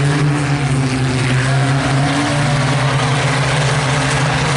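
IMCA Sport Compact race cars running at speed, their four-cylinder engines at high revs blending into a steady drone.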